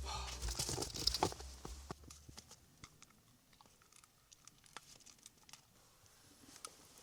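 Background music fading out over the first two seconds, then faint scattered crunching and clicking.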